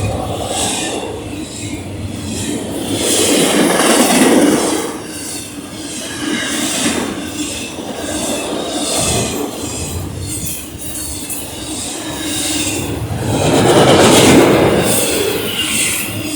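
BNSF train rolling past, a steady noise of wheels on rail with high wheel squeal over it, swelling louder about 4 s and again about 14 s in.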